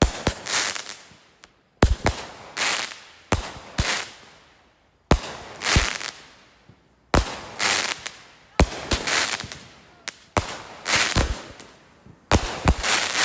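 Phantom Fireworks 'Palm Pyro' consumer firework firing shot after shot: sharp pops in groups of two or three every second or two, each followed by a short noisy burst that dies away.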